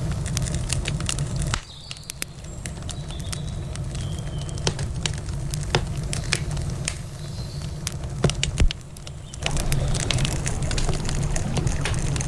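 Wood campfire crackling with many sharp, irregular pops, over a low steady rumble that drops away from about a second and a half in and comes back near the tenth second.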